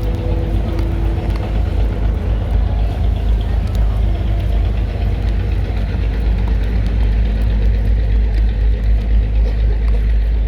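Steady low outdoor rumble with no distinct events, the kind of noise that city traffic or wind on the microphone makes.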